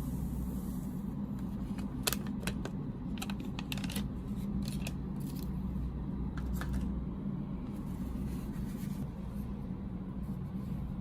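Snack packaging being handled: scattered crisp crackles and clicks, bunched in the first half, over a steady low hum.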